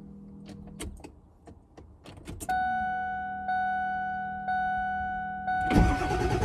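A few sharp clicks, then a warning chime dinging about once a second, then near the end the truck's engine being cranked over loudly on the starter, from a jumper box, while it fails to start.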